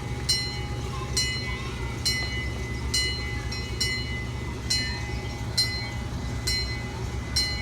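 Ride-on scale diesel train running with a steady low hum, and an evenly repeating metallic strike with a short ring, about once a second.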